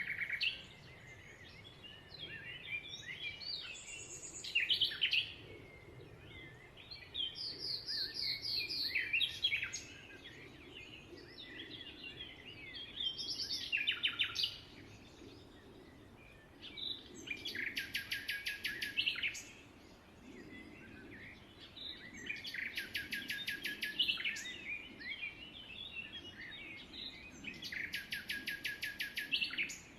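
Small birds chirping and chattering together, with a fast rattling trill about two seconds long breaking out every few seconds.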